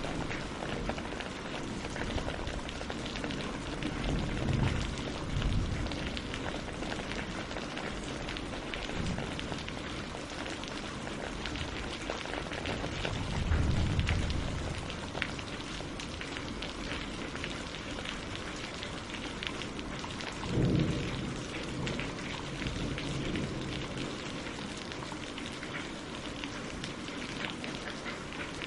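Steady rain falling on leaves and lake water, a dense patter of drops. Three times a brief low rumble swells up under the rain.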